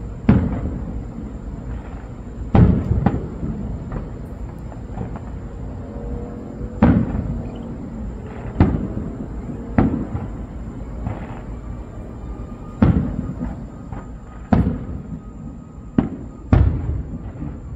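Aerial fireworks bursting: about ten sharp booms at uneven intervals of one to four seconds, each trailing off in a brief rumble.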